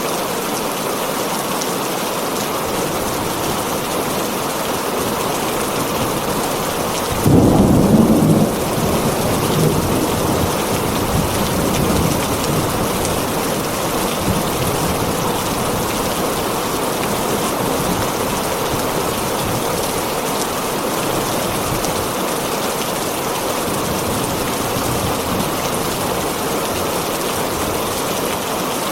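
Heavy rain falling steadily on a tin roof. A thunderclap breaks about seven seconds in and rumbles away over the next few seconds.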